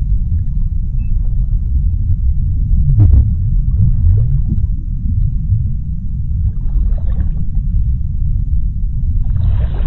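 Underwater sea ambience: a deep, steady low rumble, with a low dipping swoop about three seconds in and faint hissing swells around seven seconds and near the end.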